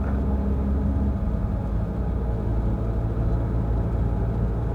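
Peugeot Rifter's engine and road noise while driving, a steady low hum whose pitch shifts about a second in.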